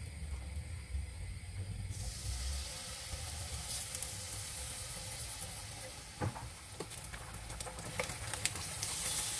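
Spice-coated eggplant slices sizzling in hot olive oil in a frying pan. The hiss starts suddenly about two seconds in and grows louder near the end, with a few light clicks and knocks as slices are placed and turned.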